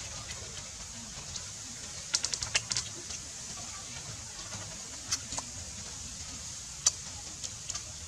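Close-up chewing and crunching of grilled mouse meat and small bones: sharp, crisp crackles, a quick run of them two to three seconds in and single ones later, over a steady low hiss.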